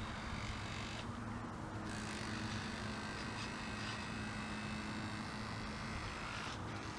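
Small RC longtail boat running, its tiny servo-derived electric motor giving a steady low hum under a wash of noise.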